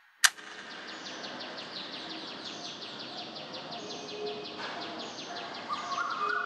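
A single sharp click, then birds chirping in a rapid run of short, falling calls, about five a second, over a steady background hiss. Near the end a steady higher note joins in.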